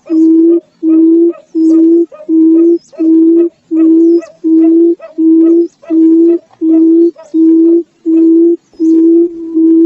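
Barred buttonquail giving its booming call: a long series of low, steady-pitched hoots, about one and a half a second.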